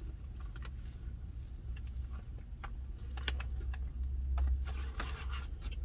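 Close-up eating sounds of biting into and chewing a fried cod fillet sandwich: irregular wet crunches and smacking clicks, with a denser crunchy burst about five seconds in. Underneath runs the low steady hum of a car cabin.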